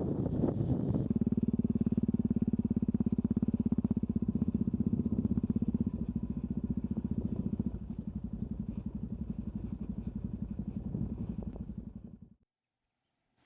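Yamaha XT660Z Ténéré's single-cylinder engine running steadily with a clear, even beat of firing pulses, after about a second of wind noise; it eases slightly partway through and cuts off abruptly near the end.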